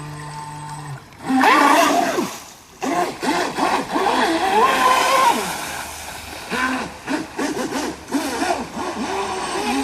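RC boat's electric motor whining steadily, then cutting off about a second in. Then a loud rush and voices calling out until, right at the end, the motor whine starts again.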